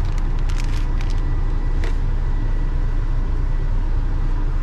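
Semi truck's diesel engine idling, a steady low rumble heard inside the cab, with a few light clicks in the first couple of seconds.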